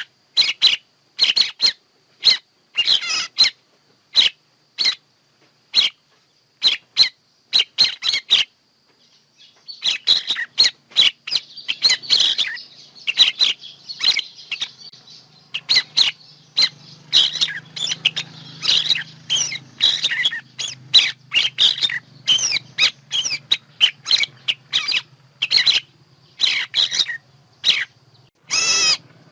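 Recorded bird calls of the kind played as a lure for bird trapping. First comes a run of short, sharp chirps at about two a second. After a brief pause there is a denser, overlapping chatter of calls over a faint low hum.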